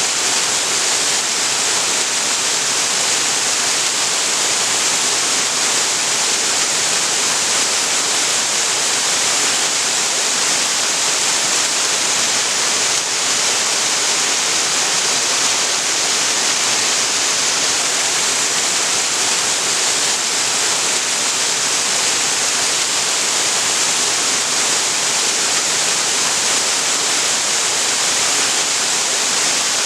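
Waterfall pouring steadily into a creek pool: a loud, even rush of falling water, strongest in the hiss, with no change or break.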